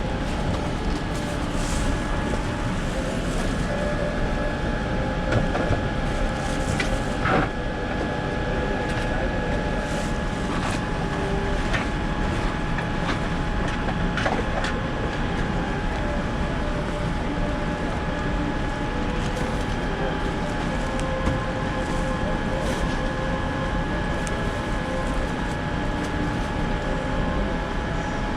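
Steady hum inside a Boeing 787-9's cabin, with two constant tones, and scattered clicks and knocks through it, one louder knock about seven seconds in.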